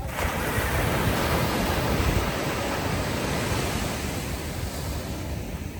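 Ocean surf washing ashore: a wave surges up to its loudest about two seconds in, then slowly recedes.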